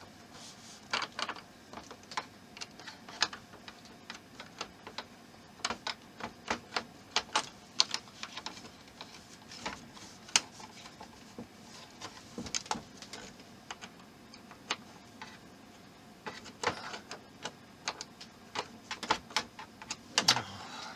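Irregular small clicks and taps of a screwdriver and small parts being worked against a plastic model display base while a screw is fitted, some clicks coming in quick clusters.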